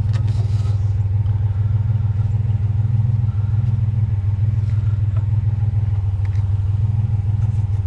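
Pickup truck driving at a steady speed, heard from inside the cab: a steady low engine and road drone.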